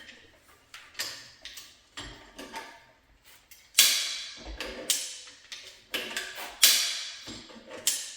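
Hammer striking metal: a dozen or so sharp, ringing knocks, one or two a second, louder from about four seconds in. Typical of tapping a filed-down screwdriver in as a wedge to break a stuck engine free of its transmission.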